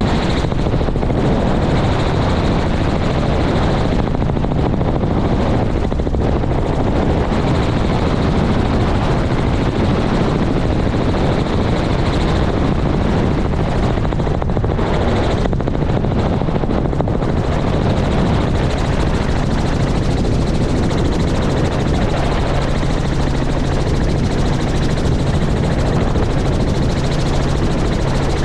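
Helicopter's rotor and engine running steadily, with a low hum that strengthens in the last third.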